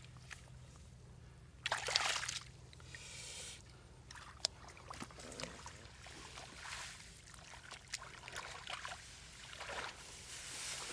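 Shallow water splashing and trickling in irregular bursts, the loudest about two seconds in, with a faint steady low hum underneath.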